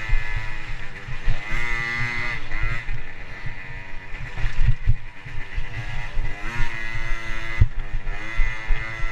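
Motocross dirt bike engine running under throttle, its pitch climbing twice and dropping once as it is revved and eased off, over a low buffeting rumble.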